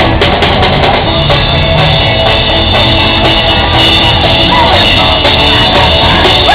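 Live rock band playing a song, loud and steady, with a driving drum kit beat.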